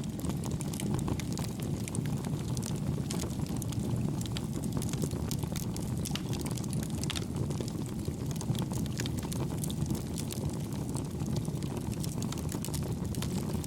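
Campfire burning: a steady low rumble of flames with frequent small, light crackles and pops from the burning wood.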